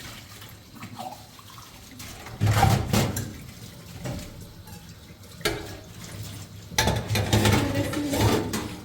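Water running and splashing, as at a tap or sink, in uneven louder bursts over a steadier trickle.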